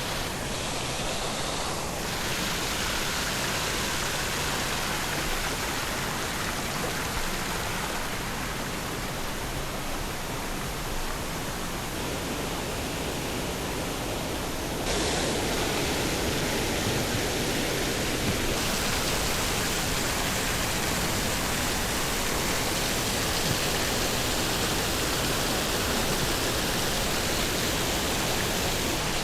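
Steady rushing water, a dense even roar. Its tone shifts abruptly a few times.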